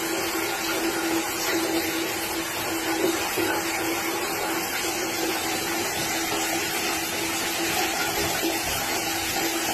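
Steady whirring of a small motor-driven appliance, an even rushing noise with a constant hum that does not change.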